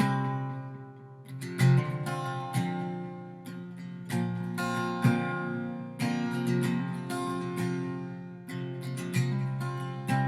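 Ibanez acoustic guitar strummed in an instrumental passage, chords ringing on between sharp strokes that fall about once a second.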